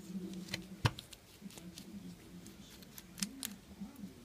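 Small sharp clicks and taps of a precision screwdriver and tiny screws being worked out of an RC truck's spur gear cover, with a faint low hum underneath.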